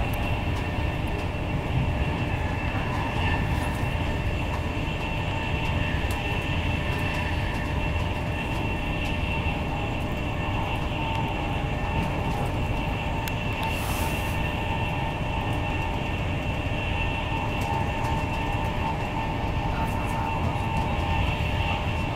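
Steady interior running noise of an Intercity 225 Mark 4 passenger coach at speed: a continuous rumble of wheels on rail, with a faint steady high whine above it. A short hiss comes about 14 seconds in.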